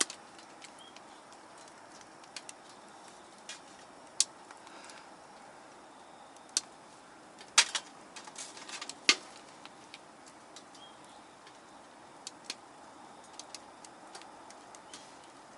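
Firewood crackling and popping in a small folding wood stove: scattered sharp snaps over a low steady hiss of the fire, with the loudest pops a little past halfway.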